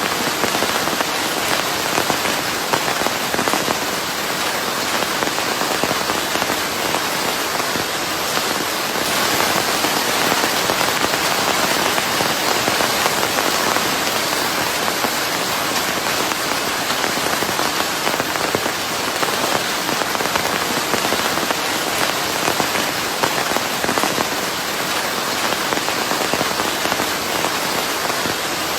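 Steady rain pattering on a surface, a dense even hiss of many drops mixed with white noise.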